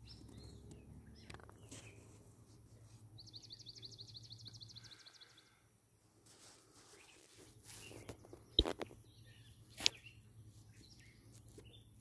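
Quiet outdoor ambience over a marsh meadow. A bird sings one short, fast, high trill about three seconds in, with faint scattered chirps around it. Two sharp clicks come a little over a second apart, about two-thirds of the way through.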